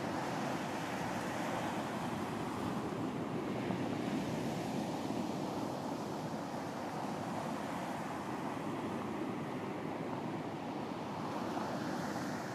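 Ocean surf washing onto a beach: a steady rush of waves, with a wave swelling up again near the end.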